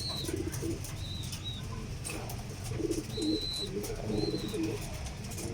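Domestic pigeons cooing in short pulsed phrases, several times, with high thin squeaks now and then over a steady low rumble.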